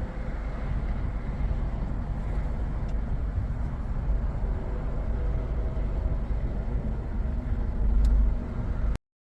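Low, steady road and engine rumble of a moving vehicle, with a louder low surge about eight seconds in.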